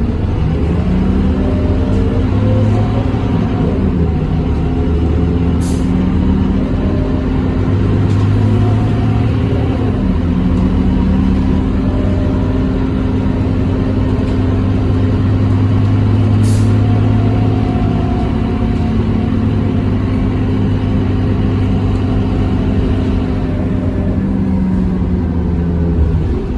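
Scania K230UB city bus's diesel engine running under way, its note rising and falling as the bus moves, with two short hisses of air, about six and sixteen seconds in.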